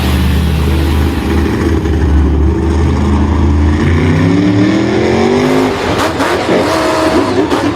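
A vehicle engine running steadily, then revving up in a long rising whine past the middle; after about six seconds it gives way to a noisier mix with a few sharp clicks.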